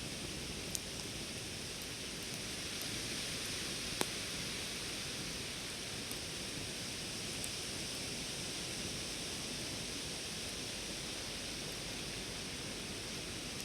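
Campfire burning with a steady hiss and a few sharp crackling pops, the loudest about four seconds in.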